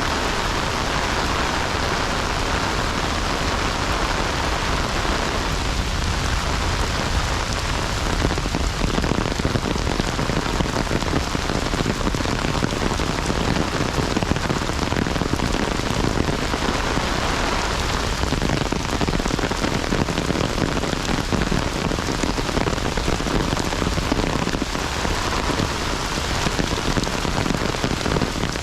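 Heavy rain falling steadily, a dense unbroken patter of raindrops.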